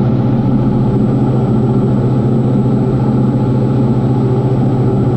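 Diamond DA40 NG's Austro AE300 turbo-diesel engine running steadily under power during the takeoff and climb, a constant drone heard from inside the cockpit.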